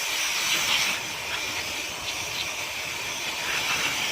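Aerosol can of carburetor cleaner spraying into a motorcycle carburetor, a steady hiss to flush out the dirt.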